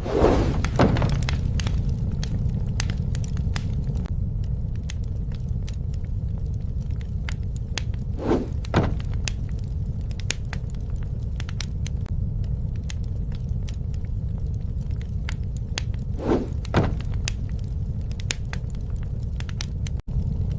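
Wood fire burning with a steady low rumble and constant sharp crackles, with a louder pair of pops at the start, about eight seconds in, and about sixteen seconds in.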